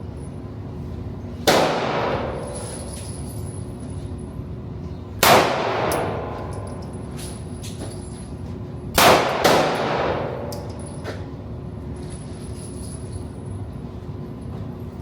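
Four handgun shots, spaced a few seconds apart with the last two in quick succession, each followed by a ringing echo.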